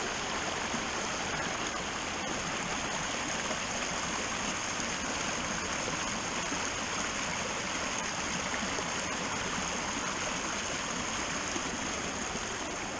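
Rain-swollen creek running high, a steady rushing wash of flowing water.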